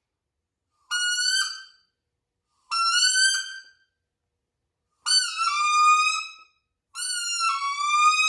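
A wood duck call blown four times: four drawn-out whistled calls of about a second or more each, the first two rising slightly in pitch, the last two starting high and dropping.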